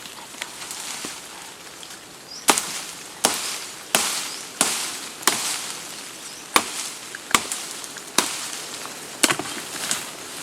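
Chopping blows on wood, about ten sharp strikes roughly two-thirds of a second apart, starting a couple of seconds in.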